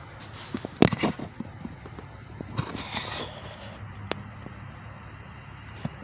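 Steady low hum of idling truck engines, broken by two short bursts of crackling, rustling noise in the first half and a few sharp clicks.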